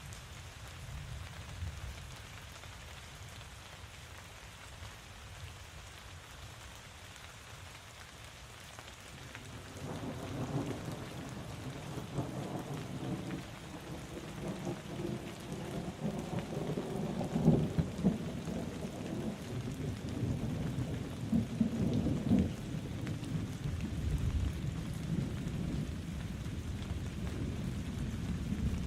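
Steady rain falling. About a third of the way in, a long rolling rumble of thunder sets in and builds, peaking twice in the second half.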